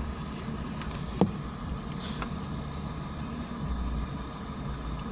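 Vehicle engine idling with a steady low rumble; a sharp click about a second in and a short hiss about two seconds in.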